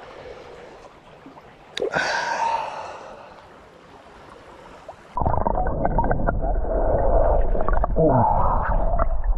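Water gurgling and sloshing heard through a muffled microphone at or under the surface of a stream, starting suddenly about five seconds in with a heavy low rumble; before that, a quieter stretch with a short splash-like burst about two seconds in.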